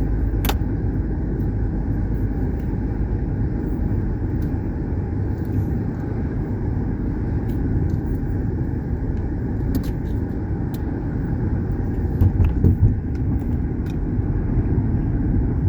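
Steady low rumble of a car driving, engine and tyre noise heard from inside the cabin, with a single sharp click about half a second in.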